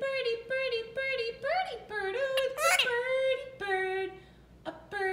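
High-pitched sing-song singing in a quick string of short, repeated syllables that rise and fall. About halfway through, a brief harsh, screechy note cuts in.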